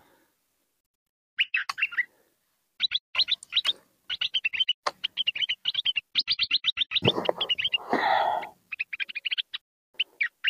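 A small bird giving rapid bursts of high chirps, several runs with short pauses between them. About seven seconds in, a louder rustling handling noise lasts about a second and a half.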